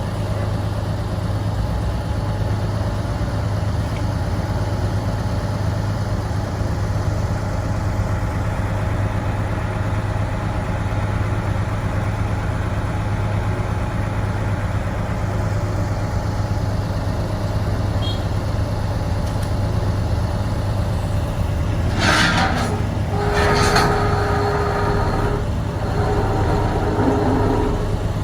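Heavy construction machinery's diesel engine running steadily. Near the end, a few sharp metallic clanks and a short squeal break in over it.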